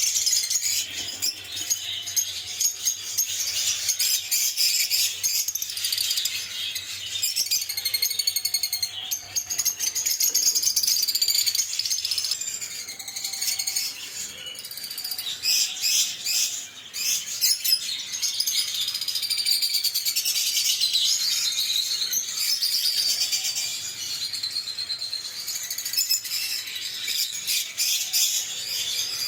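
Lovebirds chirping and chattering in rapid, high-pitched twitters that go on almost without a break.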